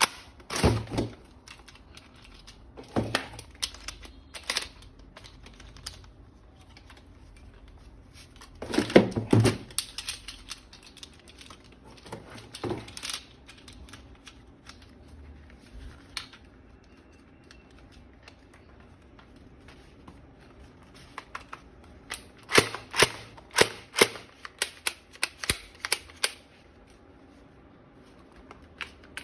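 Scattered sharp plastic clicks and knocks from toy guns being handled and worked. About three-quarters of the way through comes a quick run of a dozen or so clicks over a few seconds.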